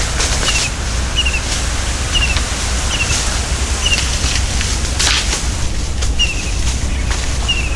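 Forest ambience: a bird repeats a short, high chirp roughly once a second, pausing for a couple of seconds midway. Under it runs a steady low rumble, with a few brief rustles, the loudest about five seconds in.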